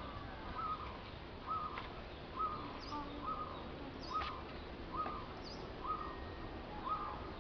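A bird calls over and over, a short flat note repeated roughly once a second, with a few faint high chirps from another bird in between.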